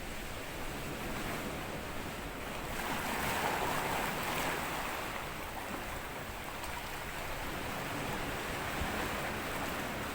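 Small sea waves washing on a sand beach: a steady wash, with one wave breaking and swelling louder about three seconds in, then easing off by about five seconds.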